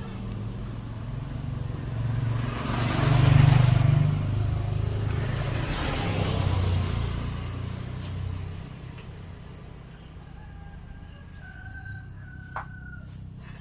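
A motor vehicle's engine swells up and fades away, loudest about three seconds in with a second smaller rise a few seconds later, like traffic passing by. Near the end, quieter chicken or bird calls and a single sharp click.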